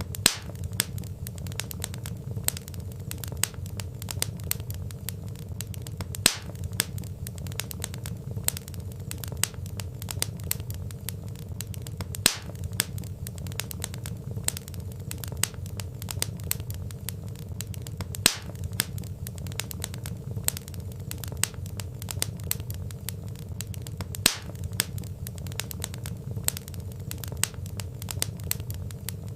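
Wood fire crackling and popping over a low steady rumble, with scattered small clicks and a few louder snaps. The crackle is a loop that repeats about every six seconds.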